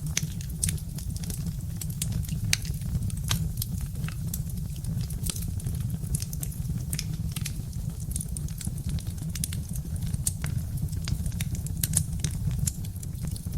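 Birch-wood fire crackling, with frequent irregular sharp pops and snaps over a steady low rumble of the burning fire.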